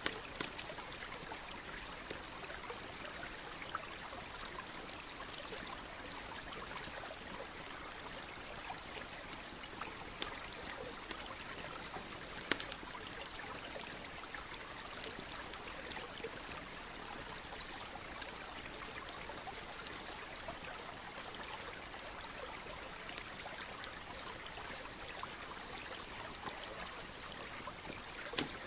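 A stream running steadily, with a campfire crackling and popping in short, irregular sharp snaps over it.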